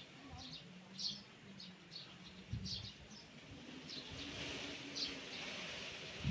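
Small birds chirping in short high calls about twice a second. Under them are a faint low hum and a rising hiss of wind between about four and five and a half seconds in.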